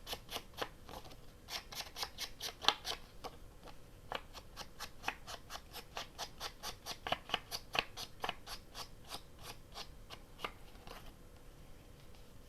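Scissors snipping paper in quick short cuts, about four snips a second, stopping shortly before the end.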